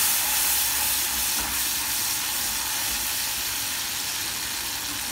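Spiced masala sizzling in hot oil in a kadai, a steady hiss that fades slightly toward the end.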